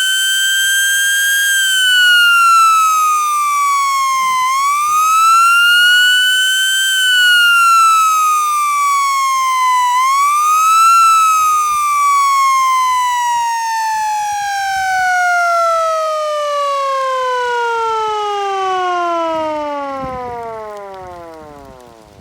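Federal Signal 28H outdoor warning siren wailing. Its pitch rises and falls twice, climbs once more about eleven seconds in, then glides slowly down over about ten seconds as the siren winds down, fading out near the end.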